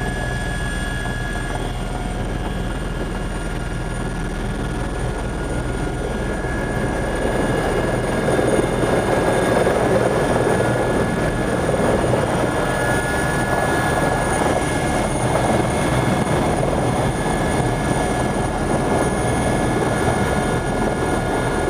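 Helicopter in flight, heard from on board: a steady engine and rotor noise with a constant high whine, growing somewhat louder about eight seconds in.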